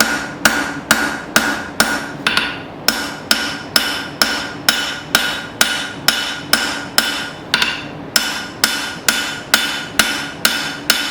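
Blacksmith's hand hammer striking steel on an anvil at a steady pace of about two blows a second, each blow ringing. The steel is a piece of an old file being drawn out by forging.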